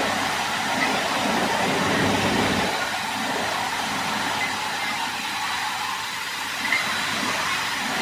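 Steady, noisy workshop machinery sound that starts suddenly just before and holds at a fairly loud, even level.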